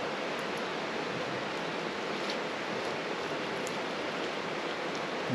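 Steady rush of a flowing river, an even wash of water noise, with a few faint ticks.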